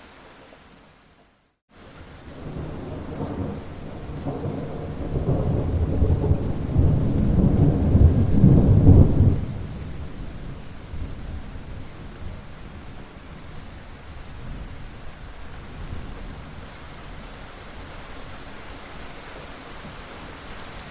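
Steady rain with a long rolling thunder rumble that builds over several seconds, is loudest near the middle, and drops away suddenly, leaving rain with fainter rumbling. About a second in, the sound cuts out briefly before the rain resumes.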